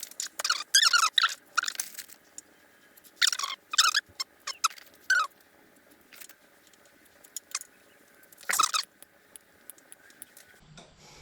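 Plastic split wire loom squeaking and crinkling in short bursts as it is worked onto the O2 sensor extension harness wires.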